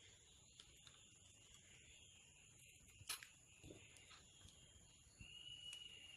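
Near silence: faint room tone with a single light click about three seconds in, and a faint, steady high-pitched tone that begins about five seconds in.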